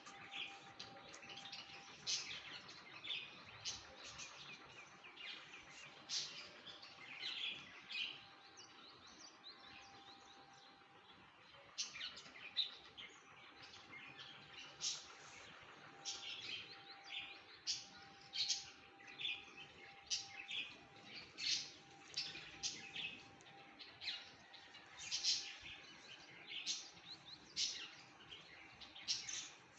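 Birds chirping: many short, high chirps in quick succession, thinning out for a couple of seconds near the middle before picking up again. A faint steady hum lies underneath.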